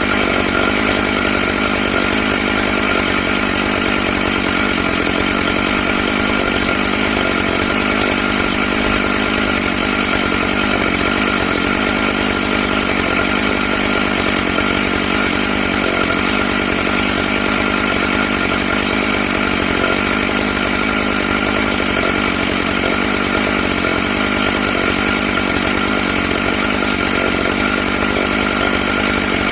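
Stihl MS661 two-stroke chainsaw with a ripping chain, running steadily and cutting lengthwise through a pine log in a chainsaw mill.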